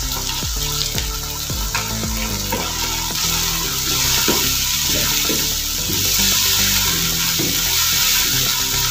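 Diced chicken and peas frying in a wok, sizzling steadily as soy sauce is poured in, with the scrape and toss of a slotted spoon stirring them. The sizzle grows louder about halfway through.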